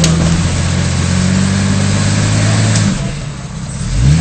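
Off-road 4x4's engine running steadily at low revs while crawling. About three seconds in it drops back, then it revs up sharply just before the end.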